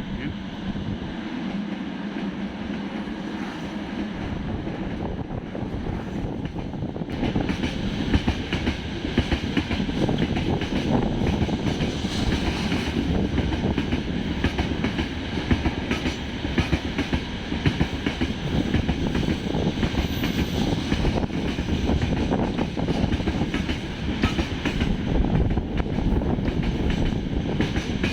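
Train passing close by on the rails, wheels clattering over the rail joints. The sound swells about seven seconds in to a dense, rapid run of knocks.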